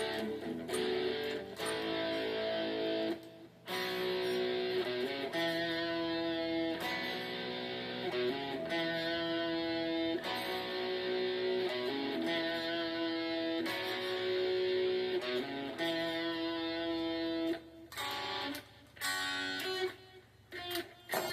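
Guitar played softly: ringing chords that change every second or two, with a brief stop about three seconds in and a more halting, broken-up stretch near the end.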